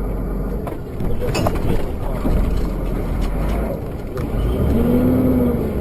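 Vehicle running on the road, a steady low engine and road rumble with a few short knocks, and a held tone that rises and then falls for about a second near the end.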